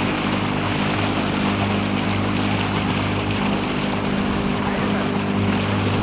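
Motorboat engine running at a steady speed, a constant drone over the rush of water and wind past the hull.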